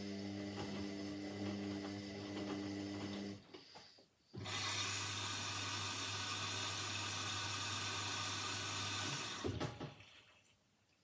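Indesit washing machine running through its cycle: a steady humming motor tone stops about three and a half seconds in. After a short gap a louder hissing run with a low hum starts and lasts about five seconds, then dies away near the end.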